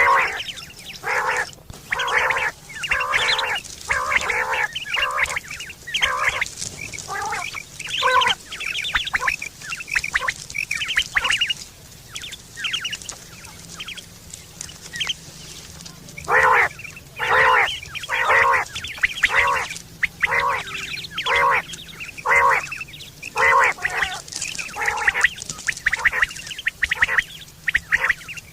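Quail calling: a run of short, repeated calls, several a second. The calls go faint for a few seconds in the middle, then come back loud.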